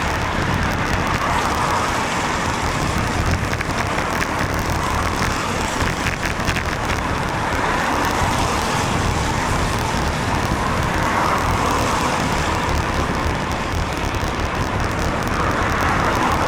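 Road traffic on a wet road heard from a moving bicycle: a steady hiss of tyres on wet tarmac that swells several times as cars pass, over a low rumble of wind on the microphone.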